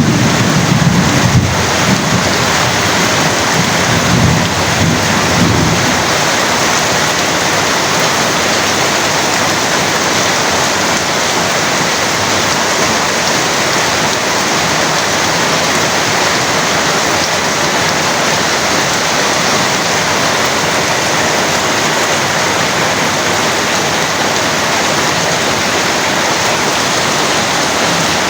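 Heavy rain falling steadily. A low rumble of thunder runs through the first few seconds and fades out about six seconds in.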